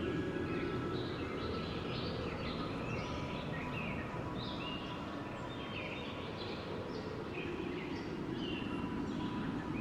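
Steady wind with a low rushing sound, with many small bird chirps over it.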